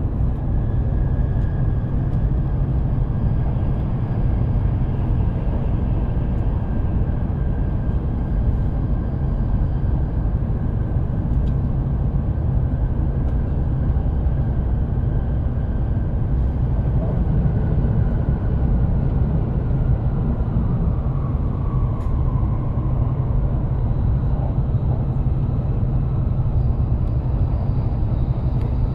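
E7 series Shinkansen train running, heard inside the passenger car: a steady low rumble of wheels on rail, with a faint high tone that drops slightly in pitch about twenty seconds in.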